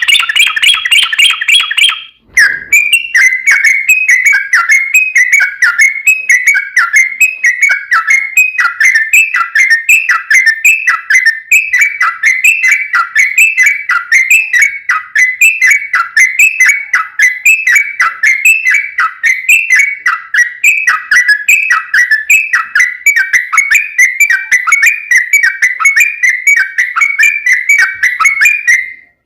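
Yellow-vented bulbul (trucukan) singing a long, unbroken run of rapid, repeated falling whistled notes. There is a short break about two seconds in, after which a slightly different, evenly repeating phrase carries on.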